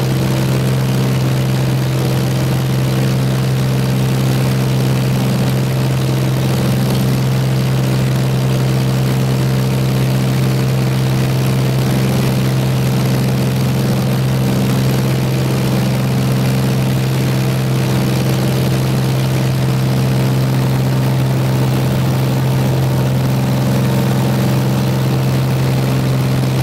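Light propeller aircraft's engine and propeller droning at one steady pitch, climbing out after takeoff.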